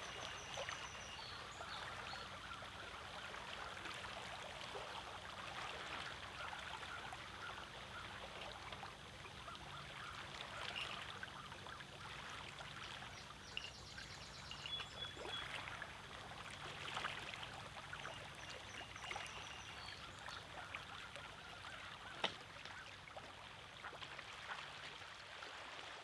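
Small lake waves lapping and trickling against a rocky shore, faint and uneven, with occasional short high bird chirps and one sharp tap near the end.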